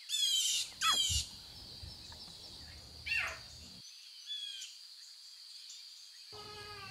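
Wild birds calling: two quick, loud downward-sweeping chirps at the start, another about three seconds in and a shorter one a second later. A steady high-pitched drone runs beneath them, and a lower call begins near the end.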